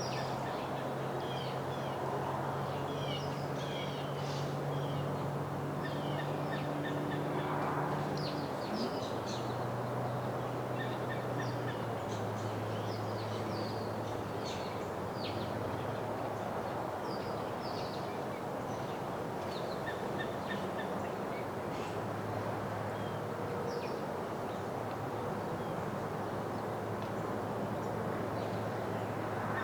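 Small birds chirping, many short calls throughout, over a steady low hum that steps in pitch a few times and a constant background rumble.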